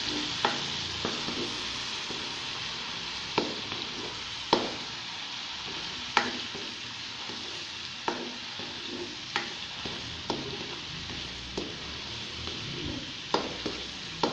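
Garlic paste and whole chillies sizzling in hot oil in an open pot, browning lightly, while a spoon stirs them and knocks against the pot every second or two.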